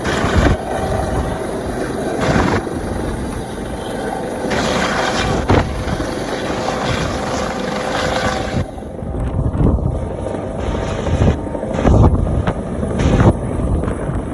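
Helicopter hovering, its rotor and engine making a steady dense noise, with several brief louder low surges in the second half.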